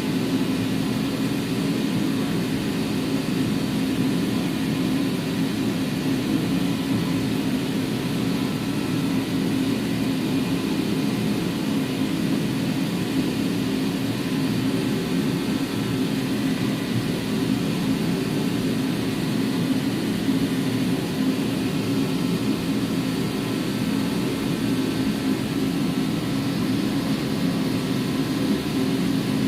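A steady, unbroken mechanical drone that does not change in level or pitch.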